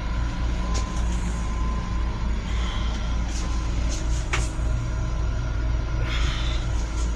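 Steady low rumble and hum of an M7 electric railcar, heard inside the car, with a few light clicks and rattles and a short hiss about six seconds in.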